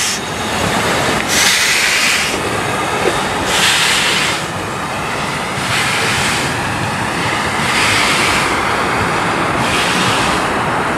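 A passenger train running by on the rails, with a continuous rumble and a burst of hissing rail noise about every two seconds.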